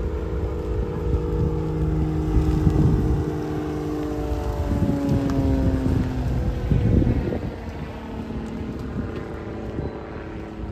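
Aircraft engine passing by, its pitch falling as it goes, with wind buffeting the microphone.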